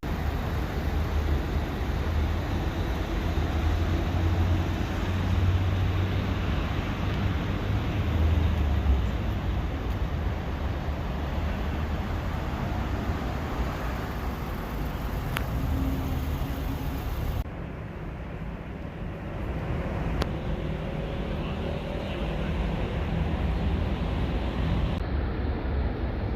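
Steady low rumble of vehicle engines and traffic at a busy car park. The sound changes abruptly about two-thirds of the way in and again near the end.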